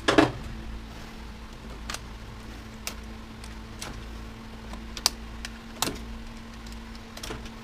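Scattered sharp clicks and light knocks, about one a second, from parts and tools being handled while a washer/dryer combo is dismantled for scrap. A steady low hum runs underneath.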